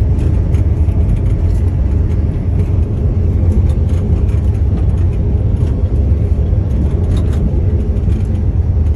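Steady low rumble of a high-speed train running, heard from inside a lavatory cubicle aboard, with a few faint clicks.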